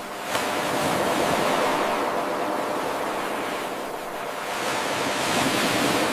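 Ocean waves washing onto a shore in a steady hiss of surf that swells, ebbs about two-thirds of the way through, and builds again. A brief click sounds near the start.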